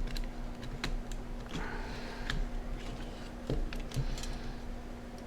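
Scattered small plastic clicks and taps, about one or two a second, as the parts of a handheld computer's case and screen assembly are handled and pressed into place, over a steady low hum.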